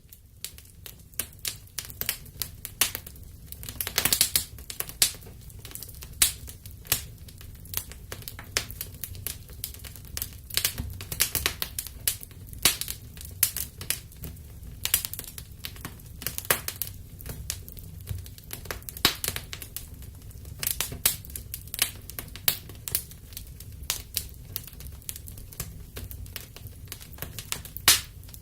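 Wood fire burning in a fireplace: irregular sharp crackles and pops of burning wood over a steady low rumble of the flames.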